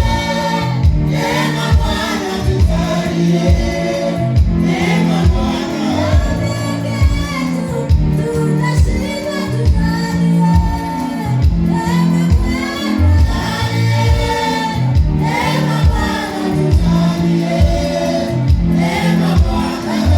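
Gospel worship music: a choir of voices singing over instruments with a steady bass beat.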